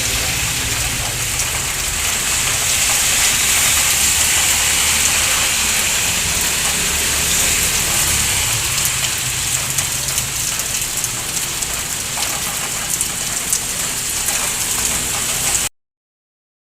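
Heavy rain falling steadily, a dense hiss with a low rumble underneath, cutting off abruptly near the end.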